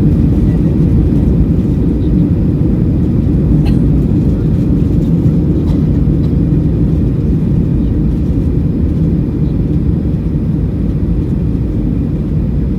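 Steady low rumble of cabin noise inside a Boeing 757-200 airliner in flight on descent, with a couple of faint clicks, easing slightly near the end.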